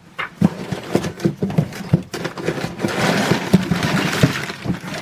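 Irregular light knocks and clunks of a water-heater gas valve being handled. From about three seconds in they come with a stretch of rustling.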